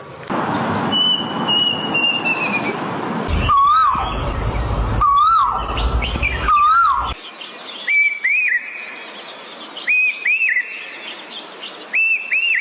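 Bird calls. A short note that rises and falls repeats about every one and a half seconds over a steady hiss. After an abrupt change about seven seconds in, higher double notes come about every two seconds.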